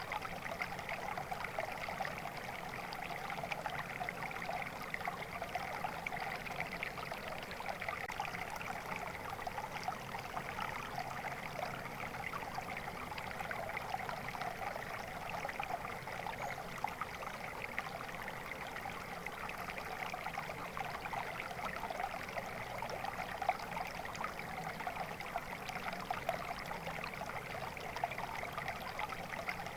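A stream of water flowing steadily, bubbling and splashing evenly without a break.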